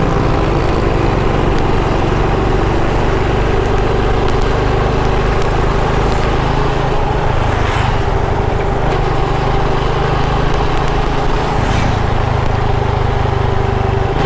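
Motorcycle engine running at a steady cruising speed while riding, with wind and road noise.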